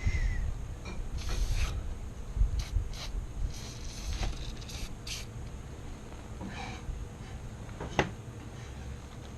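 Metal parts of a Colt AR-15 rifle being handled during cleaning: short scrapes and clicks, with one sharp click about eight seconds in.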